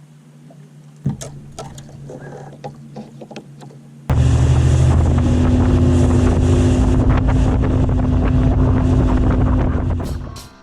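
Bass boat's outboard motor running at speed with wind buffeting the microphone; it comes in abruptly about four seconds in, holds steady, and fades near the end. Before it, a faint steady hum with a few clicks.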